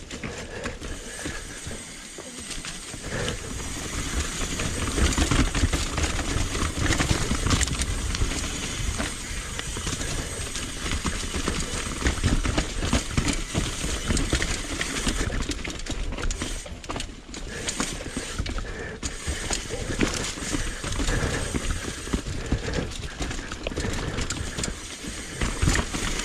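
Mountain bike clattering down a rough, rocky trail: the tyres knock over rock and the frame and chain rattle, a dense run of irregular knocks and clacks that never lets up.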